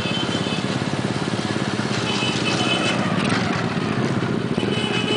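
Motorcycle engine running steadily, its rapid firing pulses unbroken.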